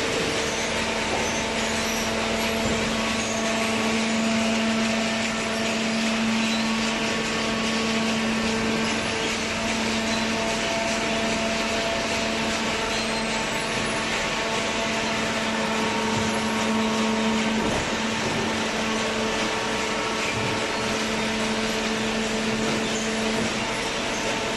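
Hydraulic cardboard baler running: a steady mechanical hum with several steady tones over a hiss, typical of its electric motor and hydraulic pump. The lowest tone comes in just after the start and drops out near the end.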